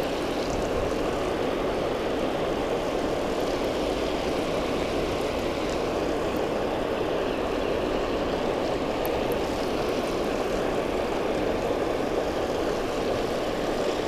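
Steady roar of water rushing over a spillway.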